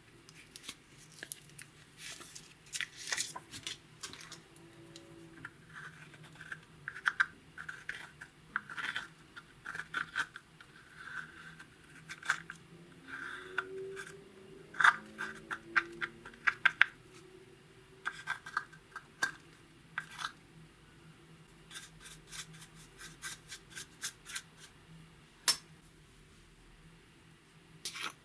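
Slime and makeup being worked by hand, close up: irregular crisp clicks, crackles and scrapes, with a quick run of clicks about three-quarters of the way through.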